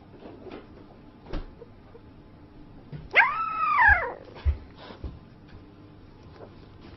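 A dog whimpering in its sleep: one drawn-out whine about a second long, about three seconds in, rising and then falling in pitch. A few soft knocks come before and after it.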